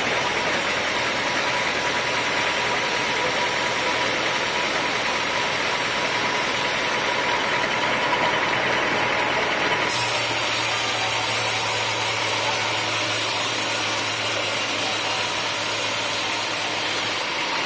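Sawmill machinery running steadily, a band saw and its engine. About ten seconds in the sound turns sharply brighter and a low hum joins, both cutting off suddenly near the end.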